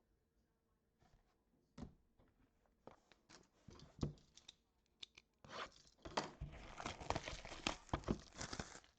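Plastic wrapping on a sealed box of trading cards being torn open and crumpled. A few scattered taps and clicks come first, then a continuous crinkling starts about five and a half seconds in.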